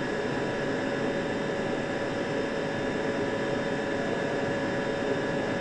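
Steady drone of factory machinery, an even rushing noise with a few steady whining tones through it. It steps in suddenly at the start.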